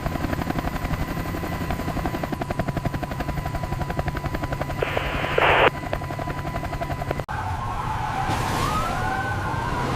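Helicopter rotor chopping rapidly with a steady engine whine, broken by a brief loud burst of noise about five seconds in. After a sudden cut a little past seven seconds, a siren wails, rising and falling.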